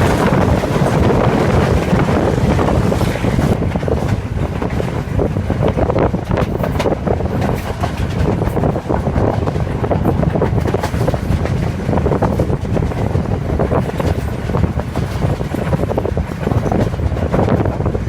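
Train running at speed, heard from on board: wind rushing over the microphone on top of a steady low rumble and many small knocks and rattles from the running gear.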